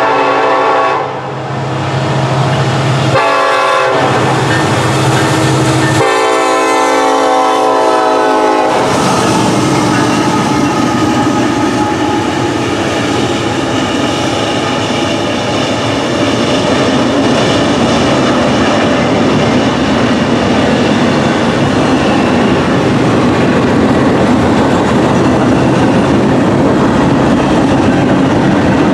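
Norfolk Southern EMD SD70ACE locomotive sounding its air horn: a long blast ending about a second in, a short blast, then a long one ending about nine seconds in. After that comes the steady noise of a long double-stack container train's wheels rolling past on the rails.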